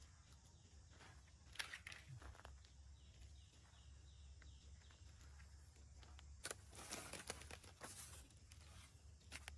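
Faint rustling and scuffing in two short spells, over a quiet steady low hum and a faint repeated chirping.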